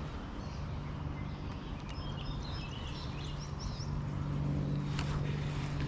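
A steady low hum with a few short bird chirps about two to three seconds in, and a faint click near the end.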